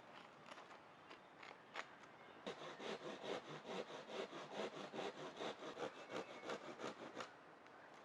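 A few light taps and clicks, then about two and a half seconds in, quick, even back-and-forth strokes of a small hand saw cutting wood, about four or five strokes a second, stopping shortly before the end.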